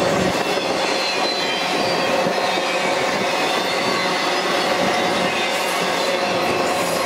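Intermodal freight cars rolling past at a steady speed: steel wheels running on the rails in a continuous rumble, with thin, steady squealing tones over it.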